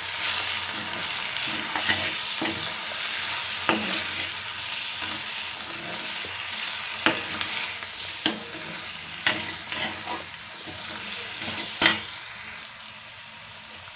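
Cabbage and potatoes frying in a metal kadai, sizzling steadily while a metal spatula stirs and scrapes through them, knocking sharply against the pan every second or two. The loudest knock comes near the end, and the sizzle eases in the last second.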